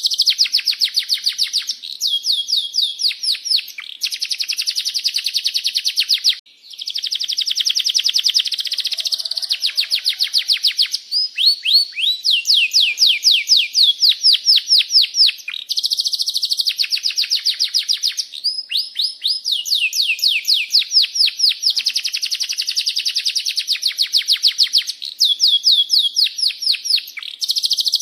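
Domestic canary singing a long, unbroken song: phrase after phrase of fast, high trilled rolls and repeated 'cuit cuit' chirps, a few of the phrases made of quick falling notes, with only brief breaks between them.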